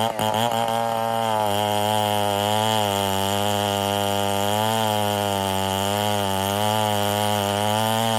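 STIHL 070 two-stroke chainsaw running steadily while cutting ironwood, its engine pitch rising and falling slightly as it works through the wood.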